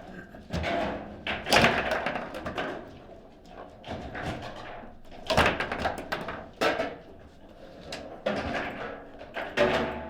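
Table football being played: the ball is struck by the rod-mounted players and knocked off the table walls, making irregular sharp knocks and thuds. A few strikes stand out, loudest about a second and a half in, twice midway and once near the end.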